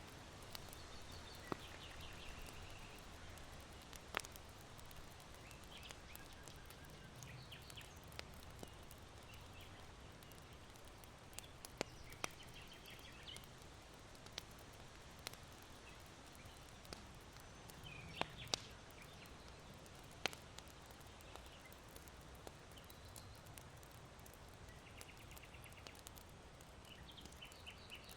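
Charcoal fire in an irori hearth giving sparse, sharp pops, over a faint steady hiss of wind, while small birds give short twittering calls now and then.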